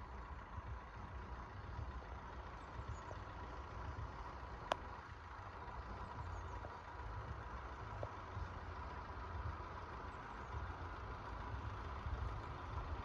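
Low engine rumble of road vehicles idling at a level crossing, with a faint steady high tone and a single sharp click about five seconds in.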